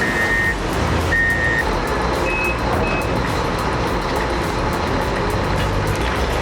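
Heavy machine's reversing alarm beeping, two half-second beeps about a second apart, then two shorter, higher beeps, over the steady noise of the machine's engine running.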